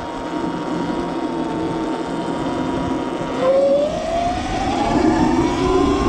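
Sur-Ron Light Bee X electric dirt bike's motor whining at a steady, slowly falling pitch, then rising in pitch from about three and a half seconds in as the bike accelerates away.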